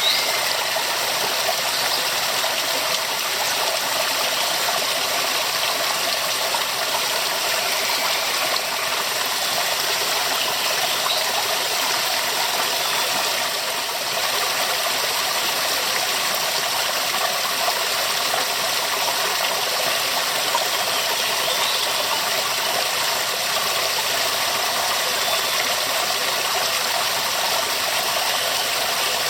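Waterfall: water falling and rushing in a steady, dense hiss with no change in level.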